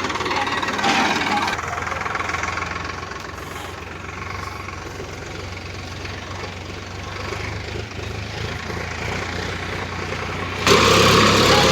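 Sonalika tractor's diesel engine running with a steady low hum, getting suddenly louder near the end.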